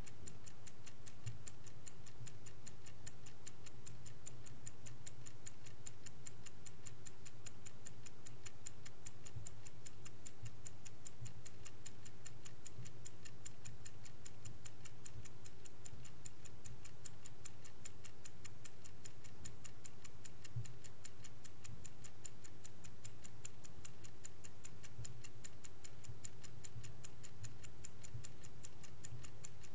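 Vintage Swiss-made Angelus clock ticking in a fast, even rhythm, over a faint steady low hum.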